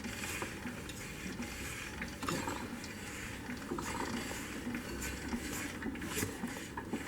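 Izh Jupiter 3 engine being turned over by hand with its newly fitted 12-volt generator spinning: a faint, quiet mechanical whirr with scattered light clicks. Nothing catches or binds.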